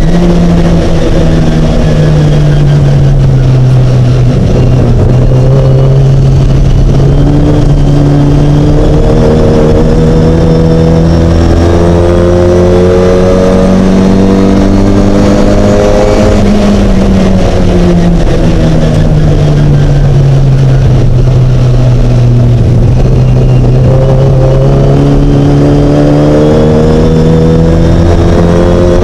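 Mini race car engine running hard under load. Its revs climb and fall slowly over several seconds at a time, and drop sharply just after the start and again at the very end.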